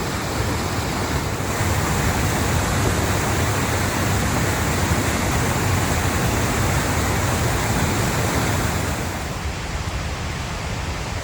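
Steady rushing of a waterfall, falling water pouring over rock, easing off a little near the end.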